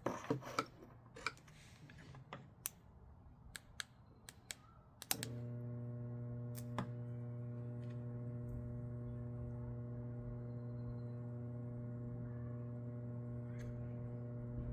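A few seconds of clicks and handling knocks, then, about five seconds in, a click as the microwave oven transformer rig is switched on and a steady mains transformer hum starts and holds.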